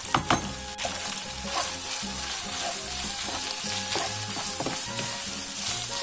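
Ground beef, onion and chopped peppers sizzling in oil in a frying pan while a wooden spoon stirs them, with a couple of sharp knocks right at the start.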